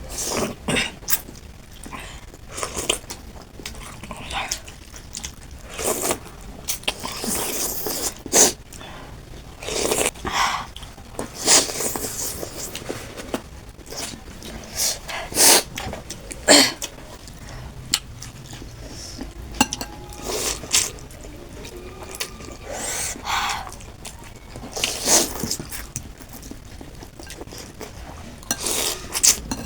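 Close-miked eating of chicken thukpa noodle soup: slurping noodles and broth and chewing, with frequent sharp wet smacks and clicks and short hissing slurps lasting about a second.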